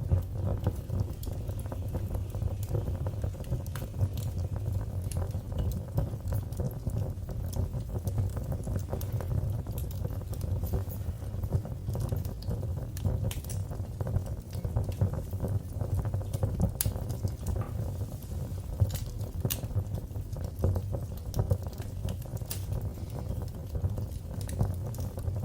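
Wood fire burning in a fireplace: a steady low rumble of flames with constant small crackles and now and then a sharper pop.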